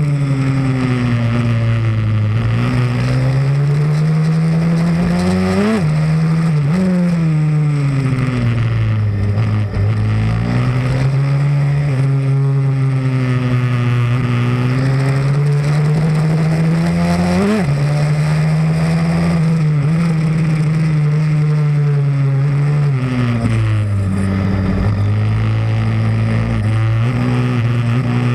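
Pit bike's small single-cylinder engine running at speed on a track, its revs rising and falling continuously through the gears and corners, with sharp flicks of revs about six and eighteen seconds in.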